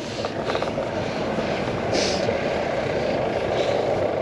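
Bicycle riding noise heard through a handlebar-mounted action camera: a steady rumble of tyres on the road and wind, with a brief hiss about two seconds in.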